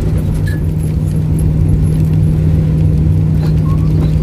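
Camper van driving, heard from inside the cab: a steady engine hum over low road rumble.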